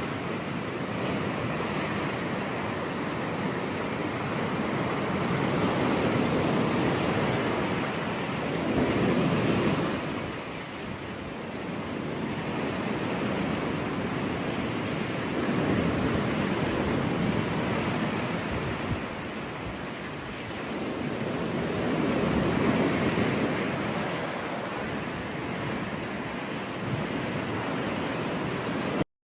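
Ocean surf washing on a beach: a continuous rush of water that swells and eases as waves break, about every six or seven seconds. The sound cuts out for an instant near the end.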